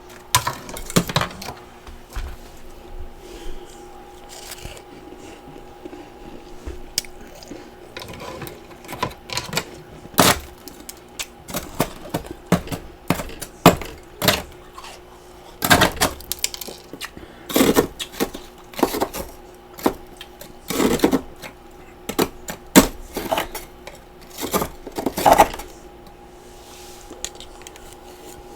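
Close-miked crunching and chewing of freezer frost and ice chunks: irregular sharp crunches in clusters, some very loud, with a faint steady hum underneath.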